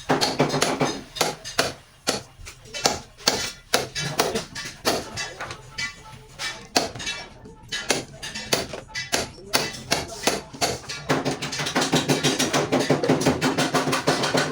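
Irregular sharp knocks, like hammer blows on metal, with ringing tones near the start and again through the last few seconds.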